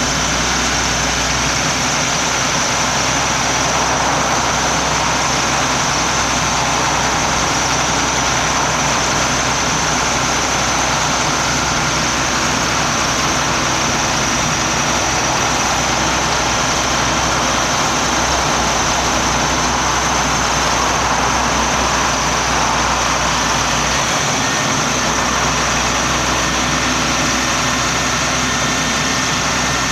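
Diesel engine of a Caterpillar M325C MH material handler running steadily, its level unchanging.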